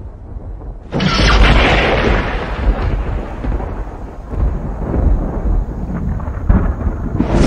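Thunder: a sudden crack about a second in that rolls off into a long low rumble, with another crack near the end.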